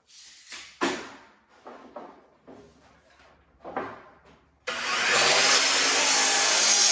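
Boards knocking and clattering as they are handled, then about two-thirds through a power saw starts abruptly and runs steadily at full speed.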